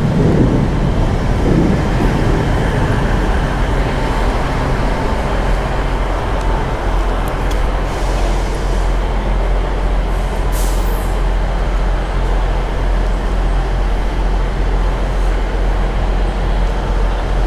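GWR Class 158 diesel multiple unit's underfloor diesel engines running at the platform: a steady, even hum, with a brief hiss of air about ten seconds in.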